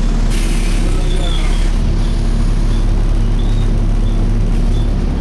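Volvo B7TL bus's six-cylinder diesel engine and cooling fan running steadily, heard from inside the bus, with no screeching from the fan. A brief hiss sounds near the start.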